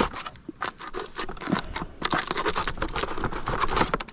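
Packaging rustling and crinkling in irregular bursts with small clicks as it is pulled open and items are handled.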